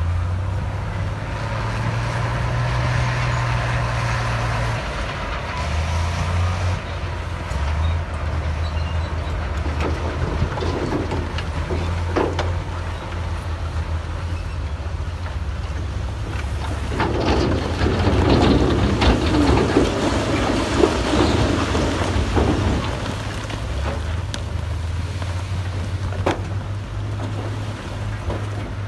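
Diesel engine of heavy earthmoving equipment running steadily, its pitch shifting as it works. About two-thirds of the way through, a louder stretch of rough grinding and scraping noise with sharp metallic clanks lasts several seconds.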